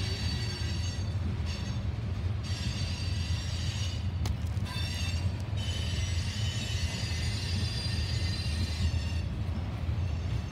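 Freight train of tank cars rolling past, a steady low rumble with a high metallic wheel squeal that drops out and comes back several times. A single sharp clank about four seconds in.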